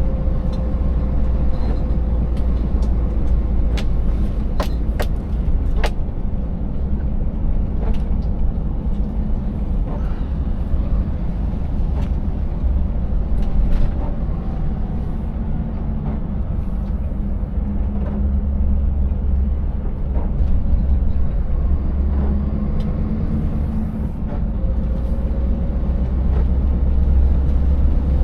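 Scania 590S truck's 16-litre V8 diesel running steadily under way, a deep drone with tyre and road noise. Scattered sharp knocks and rattles, several in the first six seconds, come from the rig jolting over a broken road surface.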